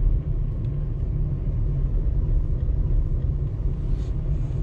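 A car driving along at a steady pace: a continuous low rumble of engine and tyres on the road.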